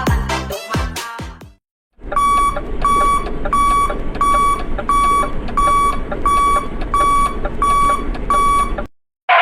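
An alarm-clock-style electronic beeping sound effect: ten short, even beeps, about one and a half a second, over a steady buzzy hiss, after a short phrase of electronic dance music. It stops abruptly.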